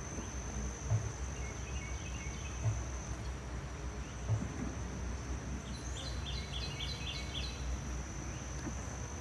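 Honey bees buzzing around an open hive under a steady high insect trill, with a quick run of about six bird chirps about six seconds in and a few soft low bumps.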